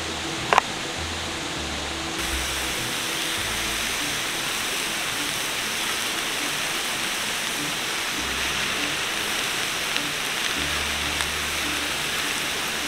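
Lion's mane mushroom pieces and green onions sizzling in a cast-iron skillet over campfire coals, a steady hiss that starts about two seconds in. A single sharp click comes just before, under a second in.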